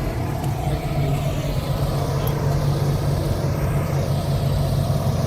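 A car engine running steadily, a low, even drone.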